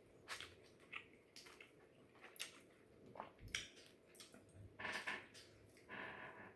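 Faint, close chewing of food, with irregular short clicks and soft crunches from the mouth.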